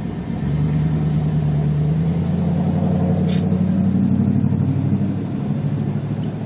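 Car engine running, swelling up about half a second in with its pitch rising a little, then easing off near the end. A short click about three seconds in.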